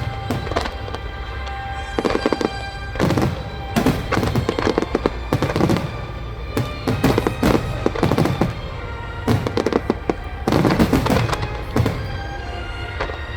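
Aerial fireworks bursting in repeated clusters of sharp crackles, with music playing under them.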